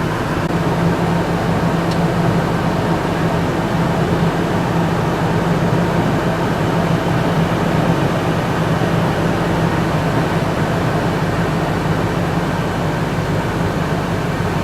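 1999 Ford F-150's 4.6L Triton V8 idling steadily, a constant low hum with no change in speed.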